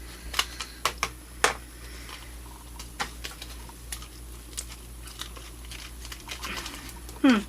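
Scattered clicks and crinkles of a plastic jerky bag being handled while someone tries to open it, a few sharp ticks a second. A short falling vocal sound comes near the end.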